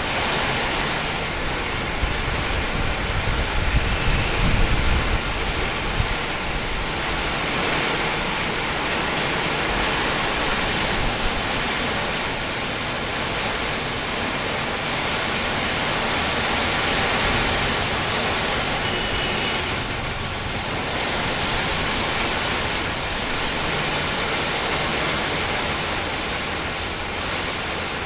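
Heavy rain drumming on a tin shed roof: a steady, dense hiss of drops with no let-up, and a few low rumbles about four seconds in.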